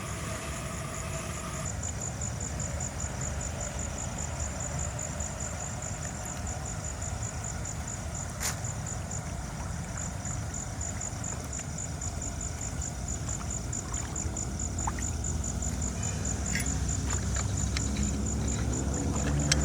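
A steady low engine rumble, with an even, rapid high-pitched pulsing running over it and a few scattered clicks.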